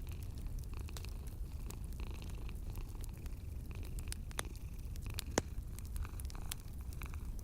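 Cat purring in a steady low rumble, with a wood fire crackling: scattered small clicks and two sharper pops, the louder one about five seconds in.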